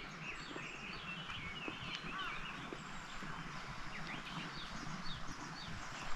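Several small birds chirping and twittering outdoors in short, quick calls over a steady background hiss, with a brief louder sound right at the end.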